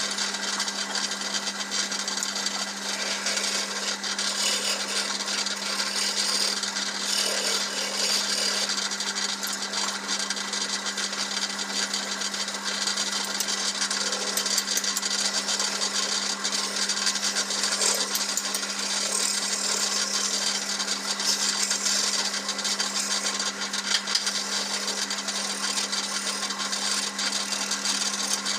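Wood lathe running with a steady hum while a tool works the spinning black teak, giving a continuous hiss that swells and eases every few seconds.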